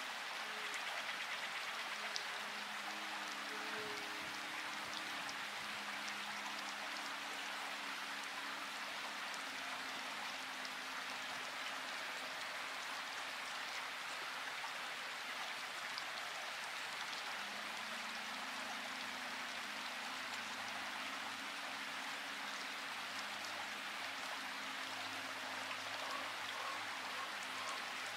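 Steady rain falling, an even hiss of drops with fine individual drop ticks, under faint low steady tones that come and go.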